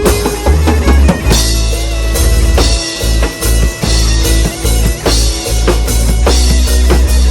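Rock band playing an instrumental passage: drum kit with bass drum hits driving a steady rhythm under bass and guitar, with no singing.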